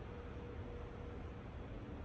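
Steady indoor room noise: an even hiss with a faint, steady hum.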